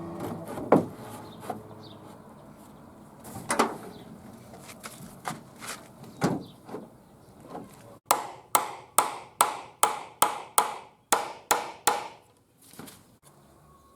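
Hammer driving nails into timber fence rail: scattered knocks of wood and hammer taps, then a run of about ten quick, evenly spaced blows, about two and a half a second, each with a short ring.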